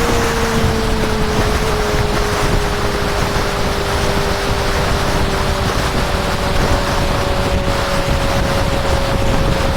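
Honda CB650R's inline-four engine cruising at steady expressway speed, its note holding near one pitch, easing down slightly over the first few seconds and creeping back up later. Heavy wind rush on the microphone runs under it.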